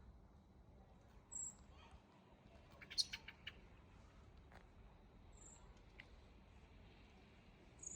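A small bird giving three short, very high-pitched call notes a few seconds apart, over a near-silent background. About three seconds in there is a quick run of four or five sharp clicks, the loudest sound here.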